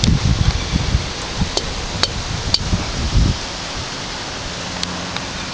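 Rustling and rumbling of the camera being handled, with wind on the microphone. There are low, uneven gusts for about the first three seconds, a few sharp clicks, and then a steady hiss.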